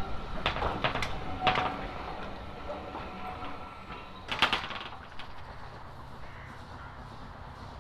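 Railway train running past and away: wheels knock and clank over rail joints, with a louder clatter about four and a half seconds in, and the sound fades.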